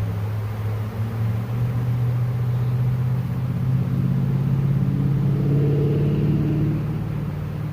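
Honey bee swarm buzzing close to the microphone, a loud low hum that rises slightly in pitch and swells a little past the middle.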